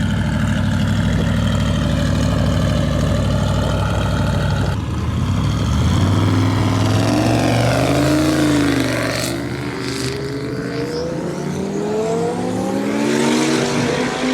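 High-powered car engines at a drag strip. A steady engine drone first, then, after an abrupt change about 5 seconds in, cars accelerating hard, their pitch swinging up and down as they pass. Near the end an engine climbs steadily in revs.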